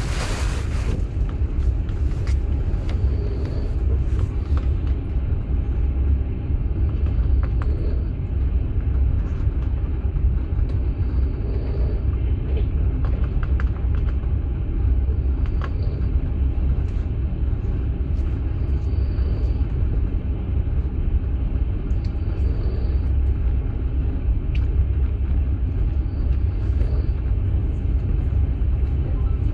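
Steady low rumble of a moving passenger train heard inside an open-plan sleeping car, with scattered faint clicks.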